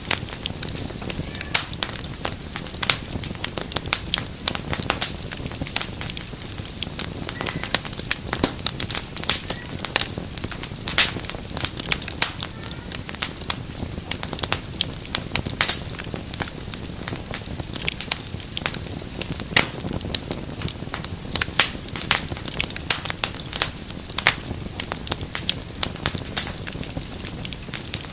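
Wood fire crackling steadily in a fireplace: dense, irregular pops and snaps over a low rumble of burning.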